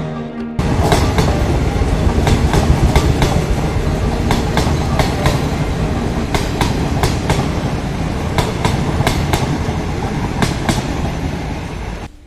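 Passenger train passing close by on the railway track, its wheels running with a loud rumble and clattering sharply over the rail joints, often in pairs of clacks. The track here is under repair, with its hook bolts and joint fastenings left undone as the trains run over it.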